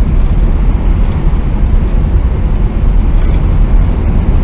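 Tohoku Shinkansen train running, heard from inside the passenger car: a loud, steady, deep rumble with a hiss of running noise above it.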